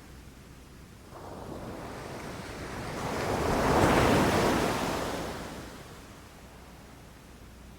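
Ocean waves breaking on a beach: one wave swells about a second in, crashes near four seconds and washes out, with a steady low rumble of surf underneath.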